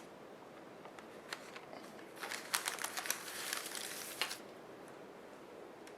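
Faint handling noise: a quick run of light clicks and crinkling rustle from about two seconds in, lasting a couple of seconds, as small craft pieces are handled.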